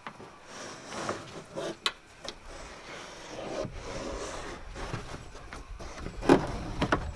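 A pressed-fibre car headliner panel being worked out of a small car's cabin, rubbing and scraping against the trim, with several sharp knocks; the loudest knock comes about six seconds in.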